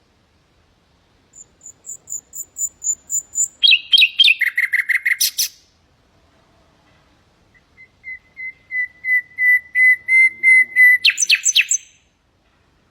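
Nightingale singing two phrases. The first is a run of high repeated notes leading into a loud, rapid trill. After a pause comes a series of repeated whistled notes that grow steadily louder and end in a quick flourish.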